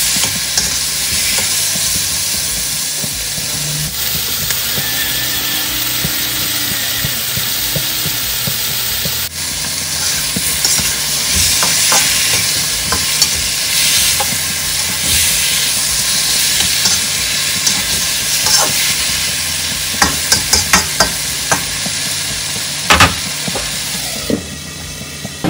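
Chicken drumsticks sizzling as they fry in oil in a wok. Near the end a metal spatula stirs and knocks against the pan in a quick run of sharp clicks.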